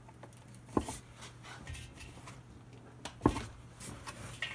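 Whirlpool washer agitator being worked up off its drive shaft: plastic knocking and scraping, with two sharper knocks, one just under a second in and a louder one past three seconds.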